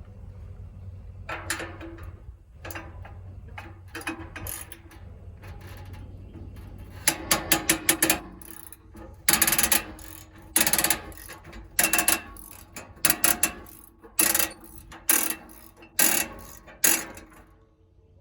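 A wrench working exhaust bolts in repeated short bursts of sharp ratcheting clicks. The bursts are faint at first and grow louder and more regular, about one a second, over a steady low hum.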